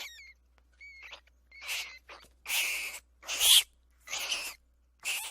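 Rat squeaking: a few short, thin high chirps, then five harsher, raspy squeals about half a second to a second apart.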